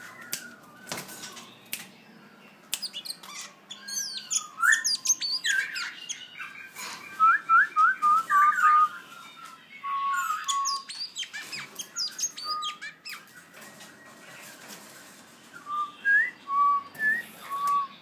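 Oriental magpie-robin calling: varied whistled notes, quick up-and-down glides and harsh squawks in several bursts, loudest about halfway through. A few sharp clicks and knocks come near the start.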